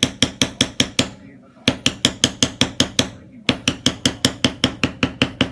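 Mallet tapping a metal stamping tool into dampened leather during leather tooling: quick, even strikes about eight a second, in runs broken by two short pauses.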